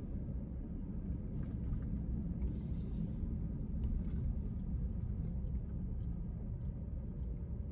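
Steady low rumble of a small ferry boat's engine under way, with a brief hiss about two and a half seconds in.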